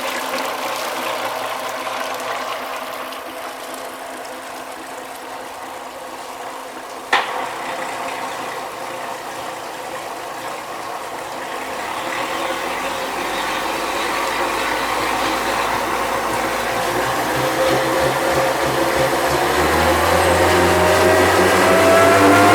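Mercury outboard motor running on a power test bench, idling with a mechanical clatter and one sharp click about a third of the way in, then speeding up steadily, its pitch and loudness rising toward the end.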